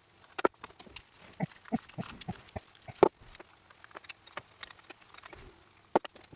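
Metal hand tools being handled and set down, giving scattered clinks and rattles, with a sharp clack about three seconds in and another near the end.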